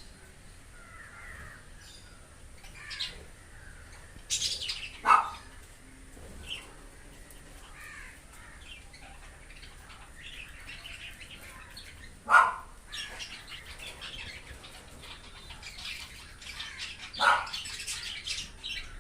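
Birds calling: three loud short calls spread through, over lighter scattered chirping.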